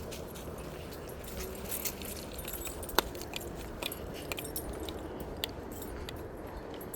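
Scattered small clicks and rustles, with one sharper click about three seconds in, over a faint steady background hum.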